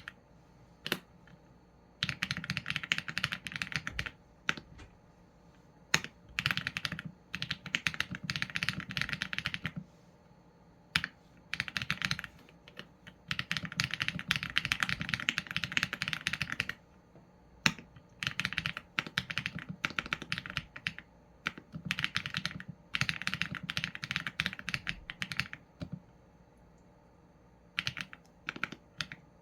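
Typing on a Qsenn A75 mechanical keyboard with Leobog Graywood v4 linear switches and PBT keycaps: quick runs of keystrokes lasting a few seconds each, broken by short pauses and the odd single key press.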